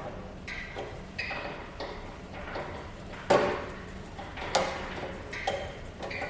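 A series of hard knocks and clinks with a short ringing after each, about seven in all, irregularly spaced, the loudest about three seconds in.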